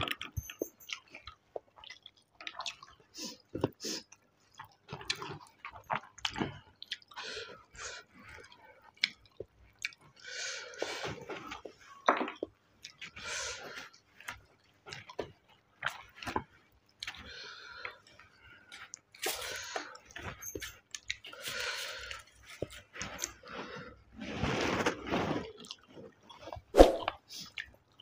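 Irregular wet chewing and lip-smacking of a person eating curry and rice by hand. Soft squishes come from rice being mixed with the fingers on a steel plate.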